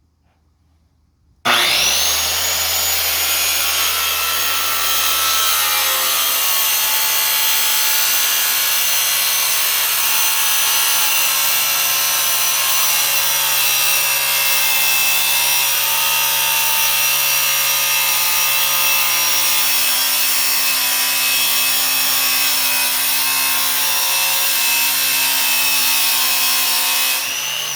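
Circular saw fitted with an abrasive metal-cutting wheel starting abruptly about a second and a half in and cutting straight through sheet metal: a loud, steady, high-pitched whine with grinding. Near the end the saw is let off and the whine falls as the wheel spins down.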